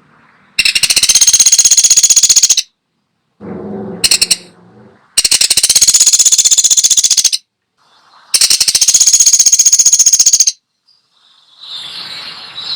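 Pelatuk sampit, a woodpecker, giving three loud, rapid rattling trills, each about two seconds long and spaced a second or so apart.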